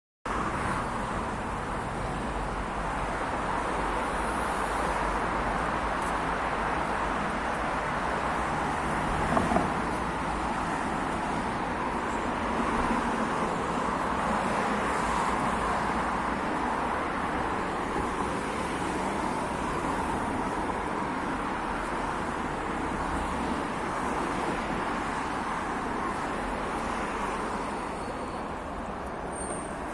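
Steady road traffic noise of passing vehicles and tyres, with a brief louder knock about nine seconds in.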